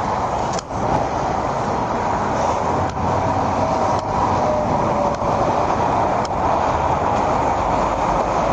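Steady vehicle noise, a continuous rumble and hiss of engine, road and traffic, with a faint wavering tone in the middle of it and a few light clicks.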